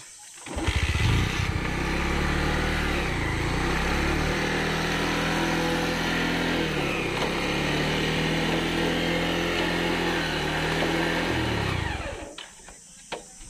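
Bajaj Pulsar 150's single-cylinder four-stroke engine starting about half a second in and running, its revs dipping and rising a couple of times, then winding down and stopping about twelve seconds in.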